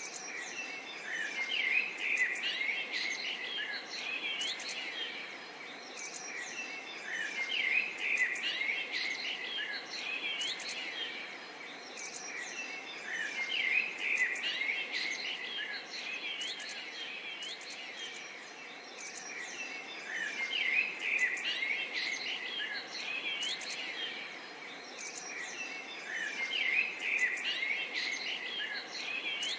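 Birds chirping and twittering over a steady background hiss, the calls swelling in bursts about every six seconds.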